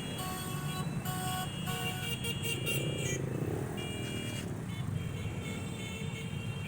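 Cars and motorcycles running past at low speed with a steady engine rumble, and short horn toots in the first two seconds and again about four seconds in.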